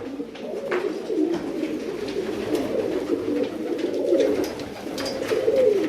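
Many domestic pigeons cooing together in a loft, their overlapping coos forming a continuous warbling chorus, with a few faint clicks.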